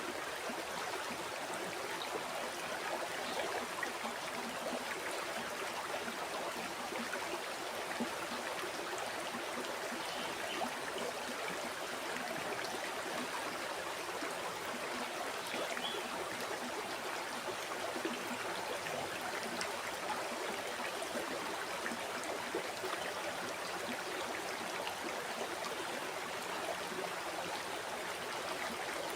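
A river or stream flowing and burbling over rocks, a steady even rush of water.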